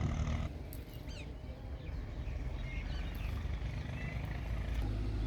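Low rumbling outdoor noise with a few short bird chirps, then a steady engine hum comes in near the end.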